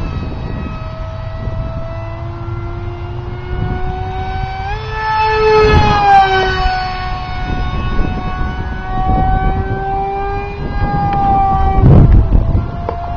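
Brushless electric motor and 6x4 propeller of a foam RC jet whining in flight, its pitch sliding up and down. The pitch climbs about five seconds in and drops again near the end. Wind buffets the microphone underneath.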